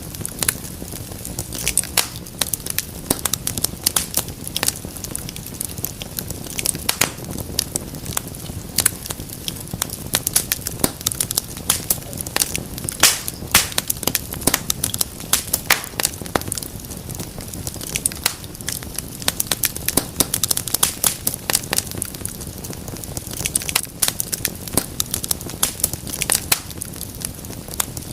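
Fire in a fireplace crackling: frequent, irregular sharp pops and snaps over a steady low rustle of the flames.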